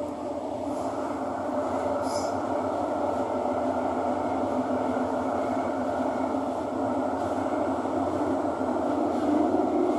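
Thomson-East Coast Line MRT train running between stations, heard from inside the carriage: a steady rumble of wheels and traction motors that slowly grows louder.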